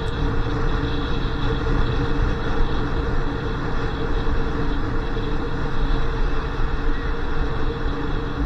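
Motorcycle engine running steadily while riding, with a constant drone and wind rushing over the microphone.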